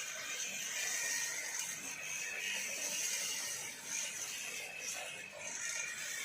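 An old grass-cutting machine running with a continuous mechanical rattle.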